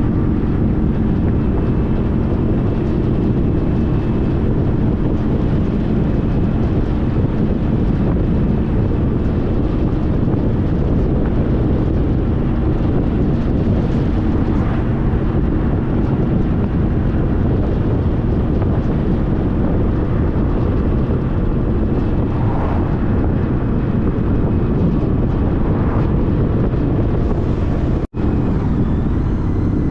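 Honda CTX1300 V4 engine running steadily at road speed, mixed with heavy wind rush on the microphone. The sound cuts out for an instant near the end.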